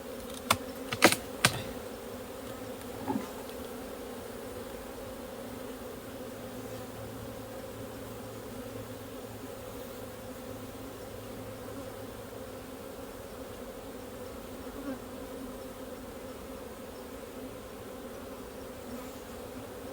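Honey bees buzzing around an open hive: a steady, even hum. Three or four sharp clicks sound in the first second and a half.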